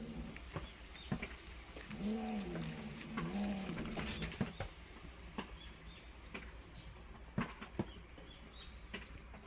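Pigeon cooing, two low arched coos about two and three and a half seconds in, with small birds giving short upward chirps throughout.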